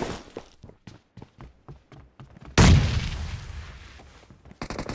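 Video-game gunfire: a run of rapid shots, then a loud explosion about two and a half seconds in that fades out over a second or so, then rapid automatic fire again near the end.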